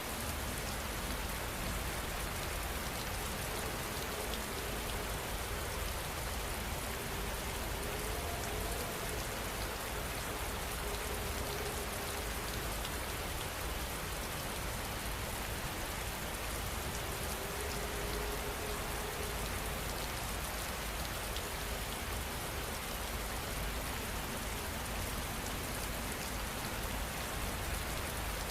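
Steady heavy rain falling: an even hiss of countless drops, with a low rumble underneath.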